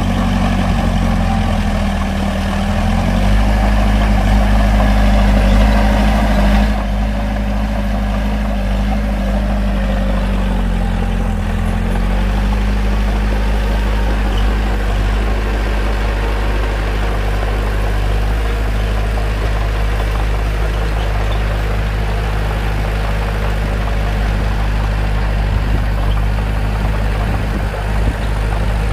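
Bulldozer's diesel engine running steadily while it works. The engine note dips briefly twice, about two and eleven seconds in, then recovers.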